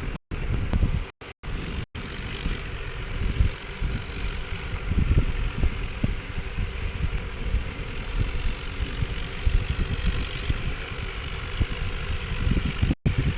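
Tractor engine running, a dense low rumble with wind buffeting the microphone, broken by several brief silent gaps in the first two seconds and once near the end.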